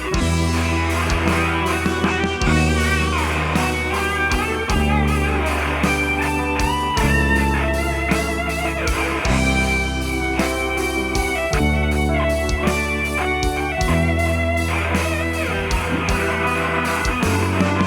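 Instrumental church band music: an electric guitar plays a melodic lead line over sustained bass guitar notes and drums, with keyboards behind.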